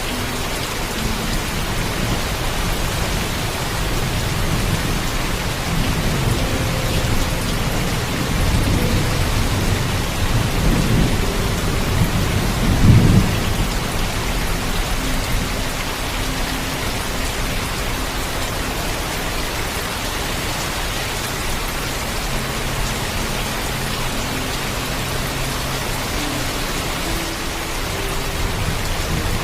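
Heavy rain falling steadily, with a low rumble of thunder that builds about six seconds in, peaks around thirteen seconds and then fades away.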